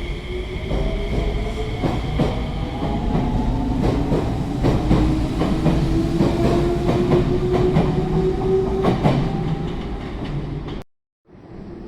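Train running on rails: a steady rumble with repeated clicks of the wheels over rail joints and a slowly rising whine. It cuts off abruptly near the end, and a quieter, different steady noise follows.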